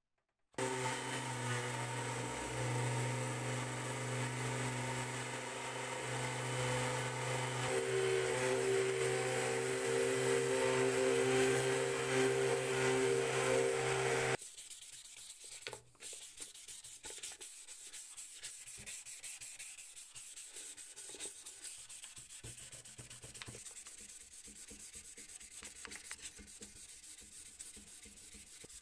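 Sanding on the old metal mail box. For the first fourteen seconds a steady hum with a rough rubbing grind. Then an abrupt change to a quieter, fast, scratchy rubbing.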